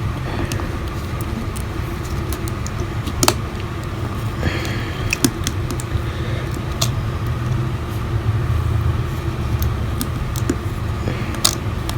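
A steady low background hum with scattered small clicks and taps from the iPhone SE's small parts being handled while its battery connector is fitted.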